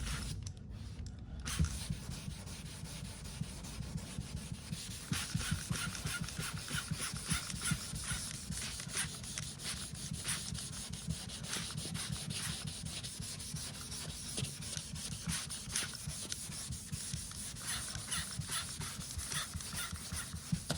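Hand wet-sanding primer on an aluminium car wing with 800-grit paper on a rubber block: quick, continuous back-and-forth scrubbing strokes starting about a second and a half in. This is the final flatting of the repair before paint.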